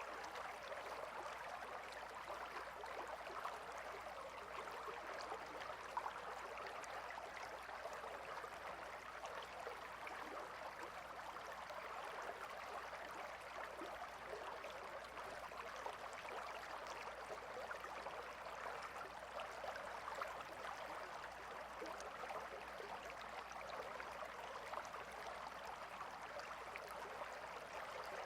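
Shallow stream flowing steadily, a continuous light babble and trickle of water.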